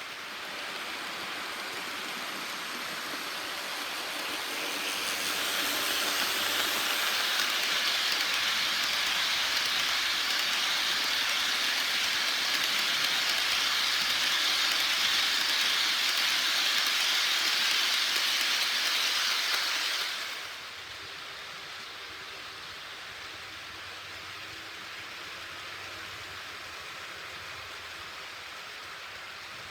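HO-scale model freight train, a pair of EF64-1000 electric locomotives hauling tank cars, running on the track: a steady rolling rush of wheels and motors. It swells, holds loud for a while, then drops off suddenly about two-thirds of the way through to a quieter steady run.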